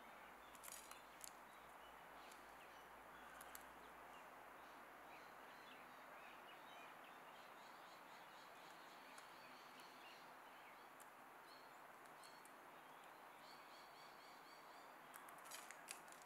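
Quiet garden ambience with faint, repeated chirping of small birds throughout. A few clusters of sharp taps, about a second in and again near the end, from Australian magpies pecking seed in a feeder tray.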